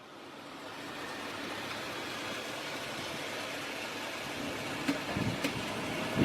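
Steady, even background noise that swells in over the first second, with two faint clicks and a couple of soft low knocks about five seconds in.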